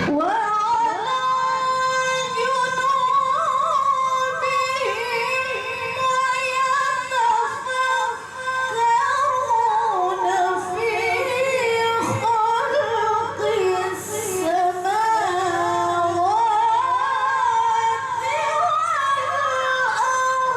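A woman reciting the Quran in melodic tilawah style: a high voice holds long notes with wavering, ornamented turns, with short pauses for breath.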